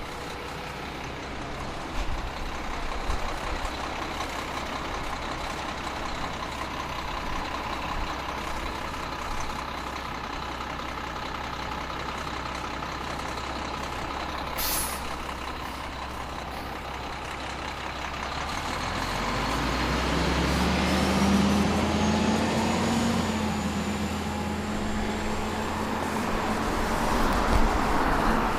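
Inside a 2002 Neoplan AN440 transit bus with a Cummins ISM diesel: the engine cooling fan, stuck on, runs loud and steady. There is a brief hiss about fifteen seconds in. From about nineteen seconds the engine note climbs and grows louder, with a rising whine, as the bus accelerates.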